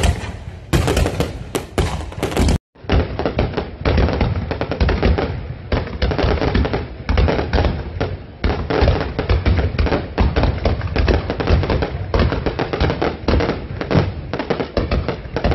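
Fireworks display: a dense, continuous barrage of aerial shell bursts and crackling. A brief break comes about two and a half seconds in, after which the sound is duller.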